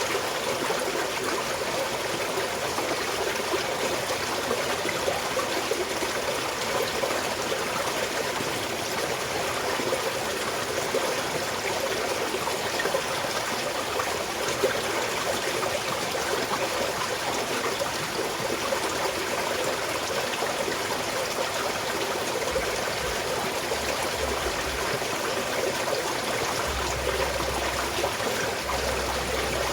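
Small mountain stream flowing and trickling steadily over rocks. Occasional low rumbles come in near the end.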